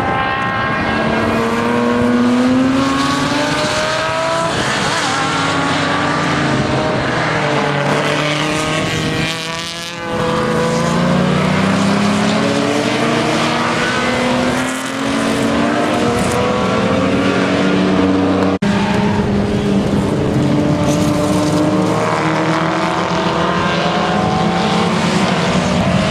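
Several historic production sports cars racing, their engines revving up and dropping through the gears as they pass, with more than one engine note overlapping.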